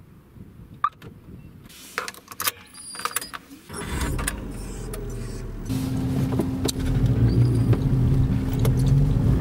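A car being started, heard from inside the cabin: a few clicks and rattles, then the engine catches with a low rumble about four seconds in and settles into a steady running hum that grows louder.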